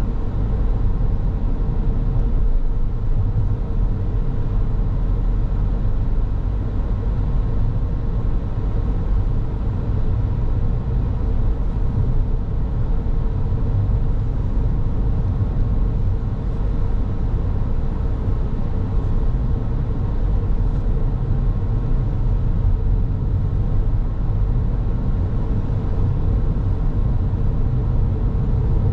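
Car driving along a road: a steady low rumble of tyre and engine noise, with a faint even hum over it.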